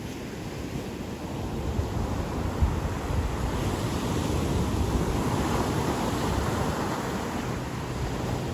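Ocean surf: waves breaking and washing up the beach, the wash swelling in the middle and easing off near the end, over a low rumble of wind on the microphone.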